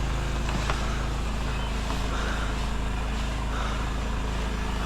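Engine of a pressure-washing rig running steadily, a constant low drone.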